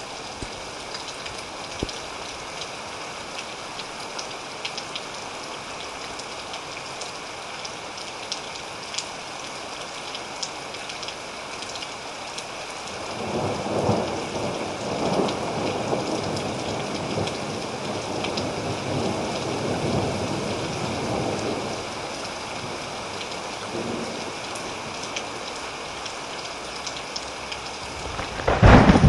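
Thunderstorm: steady rain hiss with scattered drop ticks. A long rolling thunder rumble builds about halfway through and dies away over several seconds, and a loud clap of thunder breaks right at the end.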